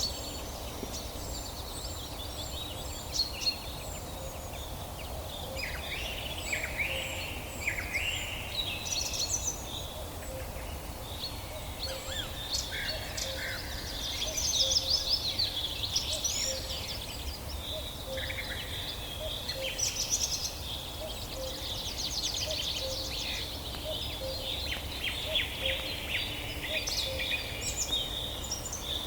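Several forest songbirds singing together, with overlapping chirps, whistled glides and fast trills, over a steady low background rumble.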